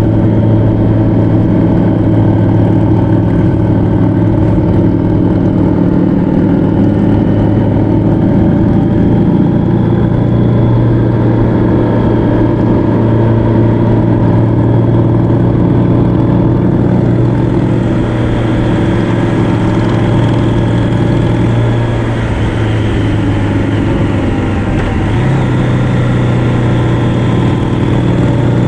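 Motorcycle engine running steadily at cruising speed, heard from on board. Its pitch holds through most of the ride and steps up slightly near the end.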